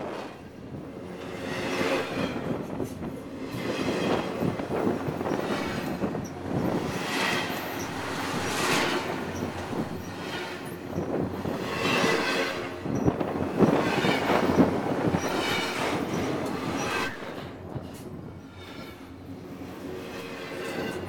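Freight cars rolling past at close range: steel wheels rumbling and clacking on the rail, with high steel-on-steel squeals that swell and fade every couple of seconds.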